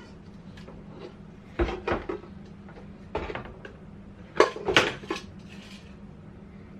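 Cooking pots knocking and clanking against each other as they are handled and taken out of a cabinet, in a handful of separate clanks, the loudest two close together a little past halfway.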